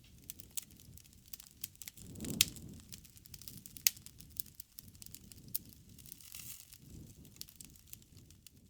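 Campfire crackling: burning wood giving off a steady run of sharp pops and snaps over a soft low noise, with louder pops about two and a half and four seconds in.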